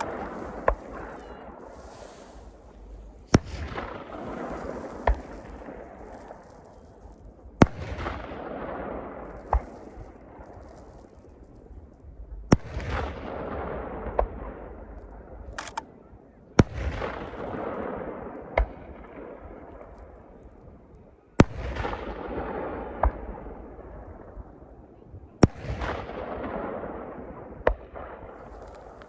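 Aerial firework shells bursting in a display. About seven loud, sharp bangs come roughly every four seconds, each followed by a trailing rumble that fades over a few seconds, with smaller pops in between.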